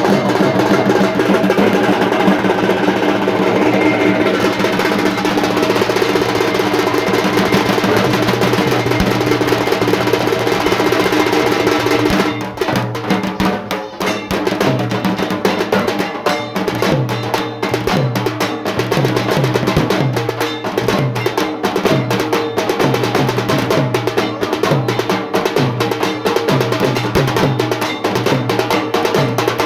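Drum music with rapid drum rolls over sustained tones; about 12 seconds in, the sound thins out into sharp, quickly repeated drum strokes.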